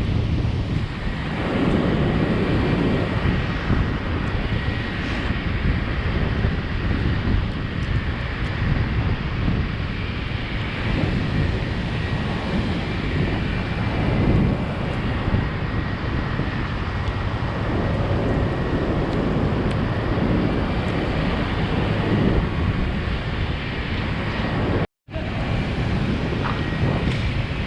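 Steady wind buffeting the microphone: a loud, even rushing noise heaviest in the low end, which cuts out for an instant near the end.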